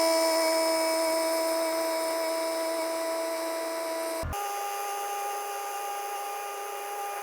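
Sakai SV200T vibratory soil-compaction roller's machinery running with a steady high-pitched whine. After a brief break about four seconds in, the whine resumes slightly higher in pitch.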